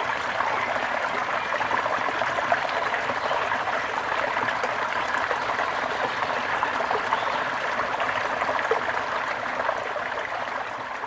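Brook water babbling and trickling steadily over stones, beginning to fade out near the end.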